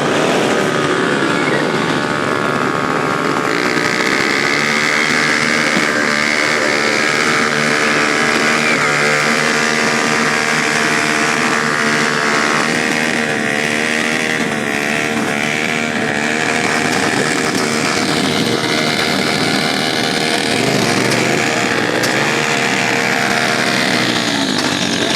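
Motorcycle engine running continuously, its pitch shifting and wavering now and then.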